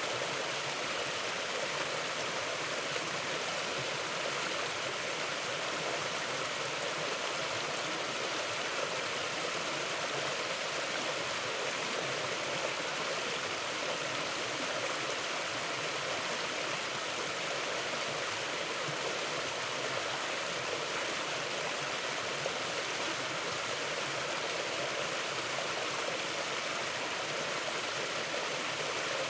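A mountain river or creek flowing over rocks: a steady, even rush of water.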